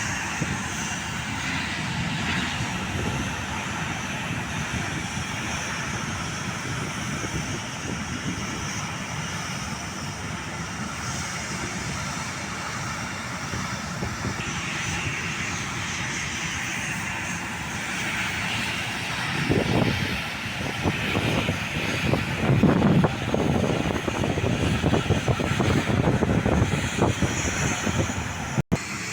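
Airliner engine noise from a passing aircraft: a steady rush that grows louder and rumbling over the last ten seconds, broken by a sudden brief dropout just before the end.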